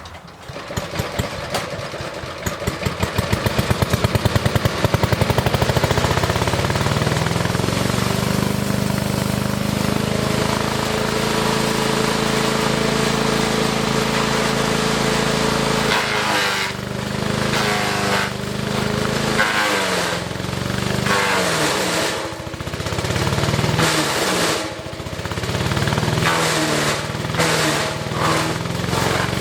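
Wood chipper engine coming up to speed, its pulses quickening over the first few seconds, then running steadily. From about halfway in, branches are fed through: sharp cracking of wood being chipped, with the engine's pitch dipping and recovering several times as it labours under the load.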